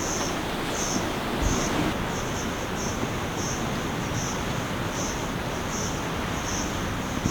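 Steady rushing noise of surf and wind on the coast, with a high-pitched chirp pulsing regularly about every two-thirds of a second.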